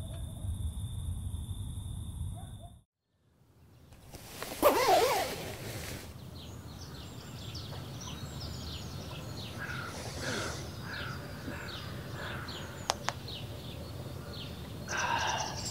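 Small birds chirping outside, a long run of short repeated notes at about two a second. Before that, a steady high-pitched whine for the first few seconds, then a brief silence and a rustle about four to five seconds in.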